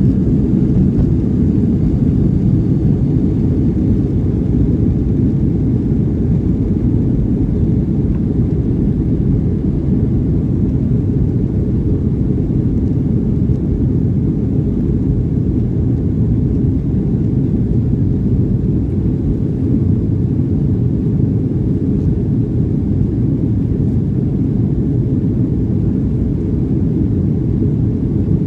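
Jet airliner during takeoff and climb: a steady, loud low rumble of engines and rushing air that stays even throughout.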